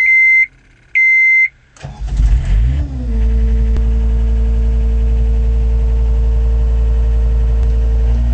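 2008 John Deere 332 skid steer loader being started: two short electronic beeps as the key is switched on, then the diesel engine cranks, catches about two seconds in and settles into a steady idle.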